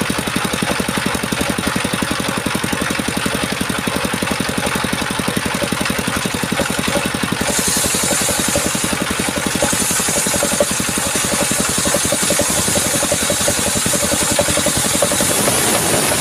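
Chainsaw engine running steadily. From about halfway in a high hiss joins it, breaks off briefly, then carries on.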